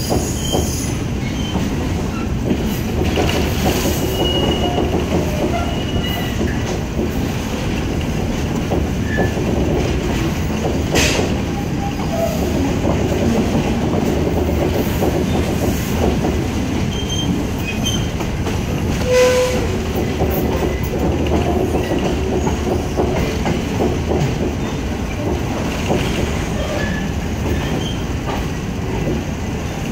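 State Railway of Thailand ordinary passenger train, hauled by an ALS diesel locomotive, heard from inside a coach while running on the rails. A steady wheel-on-rail rumble carries scattered clicks over the track, with a couple of louder knocks around 11 s and 19 s and brief wheel squeals.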